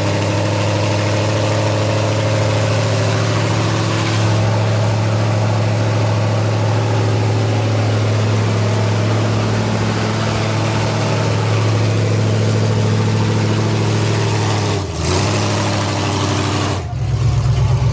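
Big vehicle engines held at high, steady revs under load while pulling in a tug of war. The sound drops out briefly about fifteen seconds in and comes back heavier near the end.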